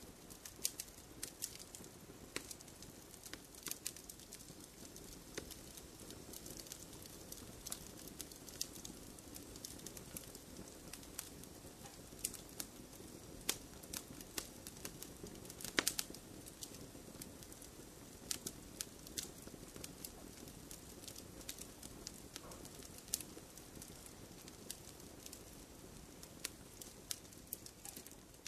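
Wood fire crackling in a fireplace: frequent irregular sharp pops and snaps over a soft low rush of flames, with one louder pop about halfway through.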